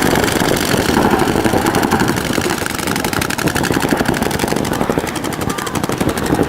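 Several paintball markers firing rapid streams of shots at once, making a dense, continuous rattle.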